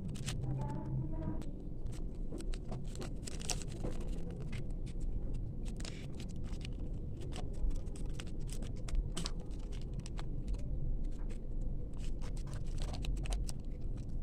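Small packaging being handled: irregular light crinkling, clicks and scrapes, over a steady low rumble like distant traffic.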